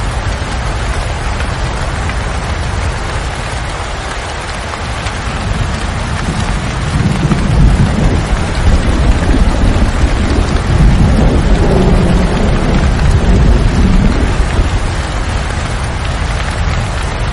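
Steady rain falling, with a long low rumble of thunder that swells about seven seconds in and dies away several seconds later.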